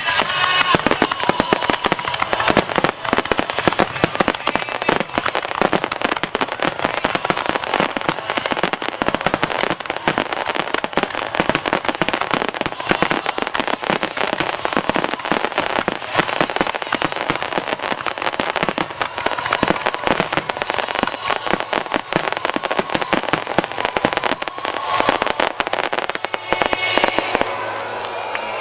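Fireworks at close range in a continuous barrage: many rapid bursts and crackles every second without a break, thinning out a little near the end.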